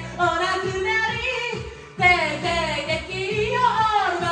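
A singer's voice singing a pop melody in Japanese over a backing track. A new phrase starts loudly about two seconds in.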